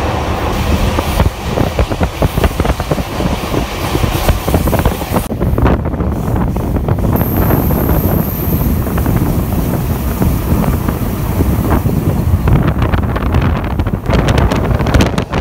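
Wind buffeting the microphone over the rumble of a moving passenger train, heard from an open window or doorway of the car. A thin, high-pitched whine sounds for about a second and a half midway.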